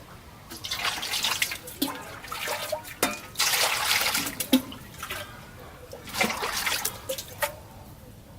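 Water splashing and trickling in uneven bursts as raw beef liver is washed by hand.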